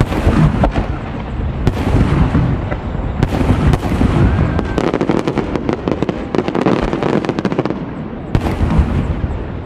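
Aerial fireworks shells bursting in quick succession: a sudden loud bang opens a barrage of booms and dense crackling reports. Another big bang comes near the end.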